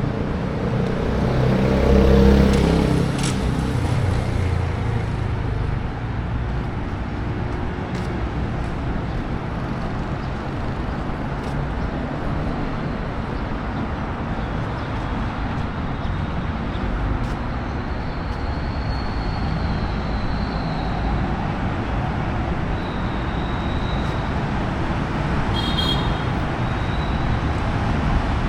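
Steady road traffic noise, with a vehicle passing close about two seconds in. Faint high-pitched tones come and go in the second half.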